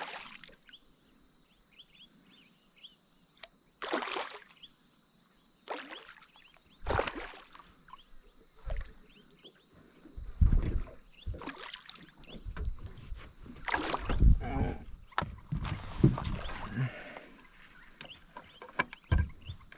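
Irregular water splashes and knocks against the boat as a hooked fish thrashes beside it, busiest in the middle stretch, over a steady high-pitched hum.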